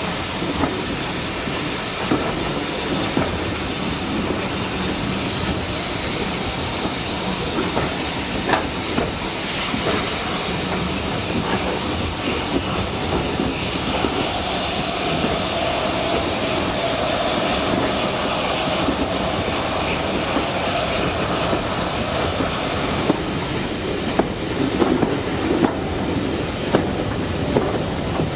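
A passenger train running along the track, with steady rumble and hiss and the clickety-clack of wheels. About halfway through a squealing wheel tone comes in and holds, then stops with the hiss a few seconds before the end, leaving a run of sharp knocks.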